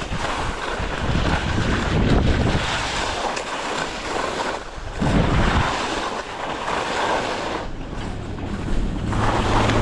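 Wind buffeting the microphone in uneven gusts, a loud rushing noise with a heavy low rumble that swells and drops every second or two.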